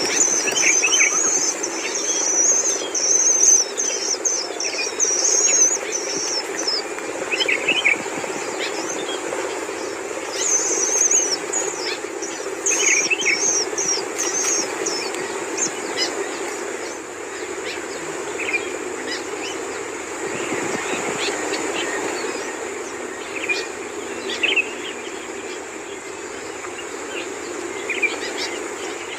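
Long-tailed shrikes calling while the chicks are fed: runs of rapid, high chattering calls, busiest in the first half and fading later, with scattered lower single calls. A steady background hum and a constant high insect-like drone run underneath.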